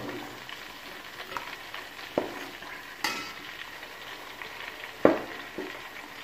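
Quail deep-frying in oil with a steady sizzle, while a perforated metal spoon turns them over, giving about four sharp knocks against the pot.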